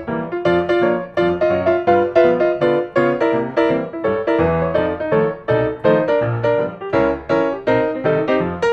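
Background piano music: quick, evenly paced notes over a repeating bass line.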